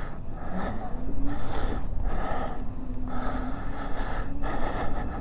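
Heavy breathing close to the microphone, a rush of breath about once a second, over the low rumble of a moving e-bike, with a faint steady hum through the middle.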